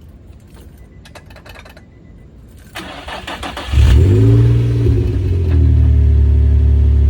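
A few light clicks, then the Infiniti G35's 3.5-litre V6 is cranked by the starter for about a second, catches with a brief rev, and settles into a steady idle.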